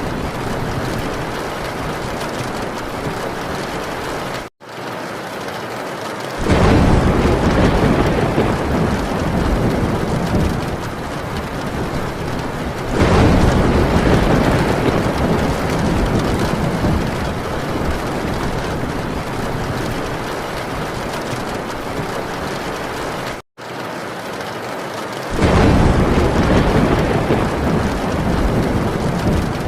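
Heavy rain drumming steadily on a metal tin roof, with thunder rolling in three times as deep rumbles that swell over the rain and die away slowly. The sound cuts out for an instant twice.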